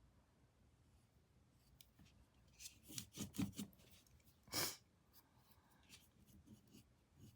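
Paintbrush stroking thick paint onto a canvas: a quick run of short rubbing strokes about three seconds in, one louder stroke a second later, then a few faint scrapes.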